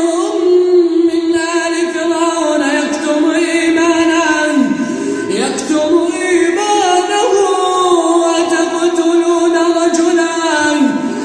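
A man reciting the Quran in a slow, melodic tajweed style, holding long drawn-out notes that glide up and down in pitch, with a brief break about halfway through.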